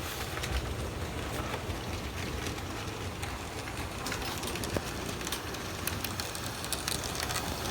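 N scale model train running on the track: a steady rolling whir with many small irregular clicks of the wheels over the rail joints.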